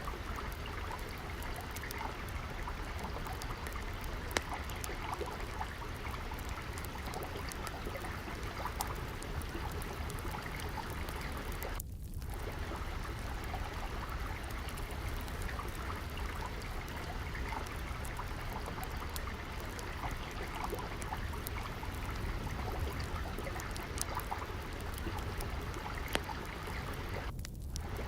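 Water flowing and trickling steadily like a small stream, with scattered small pops and crackles from a wood fire and a low rumble underneath.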